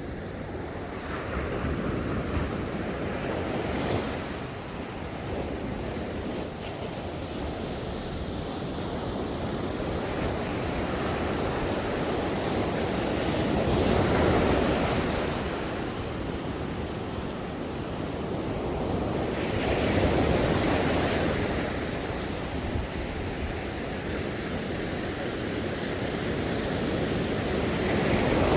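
Ocean waves breaking on a shore, a steady wash of surf that swells as each wave breaks, about every six seconds, loudest near 14 and 20 seconds and at the end.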